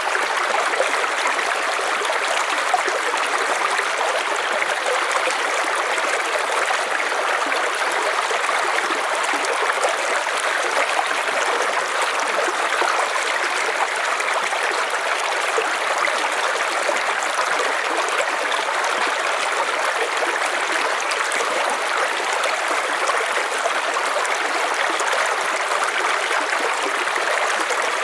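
River water flowing steadily over stones, an even rushing and splashing.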